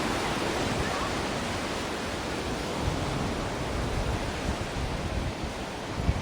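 Ocean waves washing on a shore: a steady hiss of surf, with a deeper low rumble coming in from about three seconds in.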